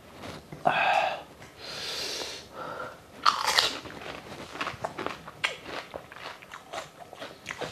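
A person biting into and chewing a crisp fuchka (pani puri) shell: a few louder crunches in the first few seconds, then small, quick crackles of chewing.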